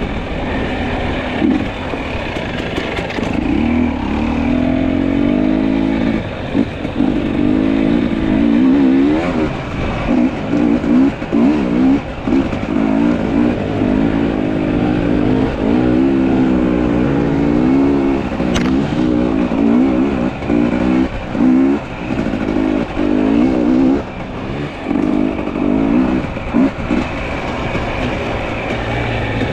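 Two-stroke fuel-injected (TPI) enduro motorcycle engine being ridden, its pitch rising and falling constantly with the throttle and broken by many short throttle chops.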